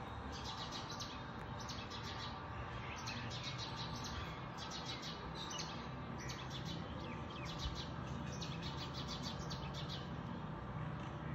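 Small birds chirping in quick repeated series of high notes, over a faint low background rumble.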